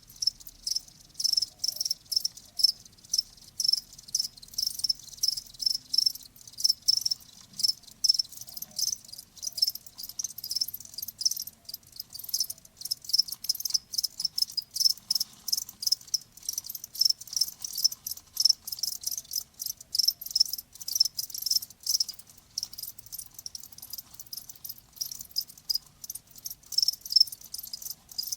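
Crickets chirping: a steady run of short, high-pitched chirps, several a second, repeating evenly.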